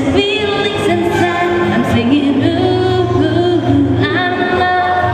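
Live pop song: a woman singing a melody over a steady instrumental backing, heard through the venue's sound system.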